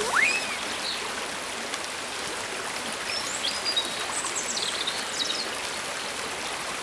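Woodland stream running steadily, with a few faint high chirps a few seconds in.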